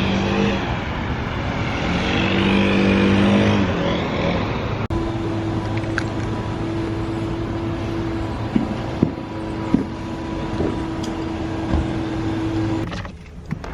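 Motor vehicle traffic: an engine running and rising in pitch as it passes, then a steady hum with a few short clicks.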